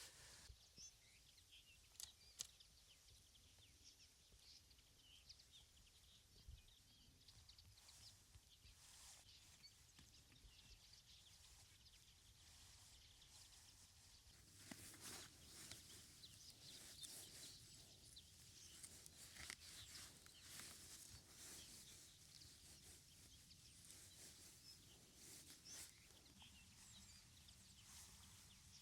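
Near silence: faint outdoor ambience with scattered soft clicks and rustles, a little busier from about halfway on.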